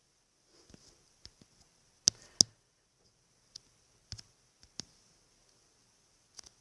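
Irregular sharp clicks and taps, two louder ones close together about two seconds in, as fingers tap on a smartphone touchscreen.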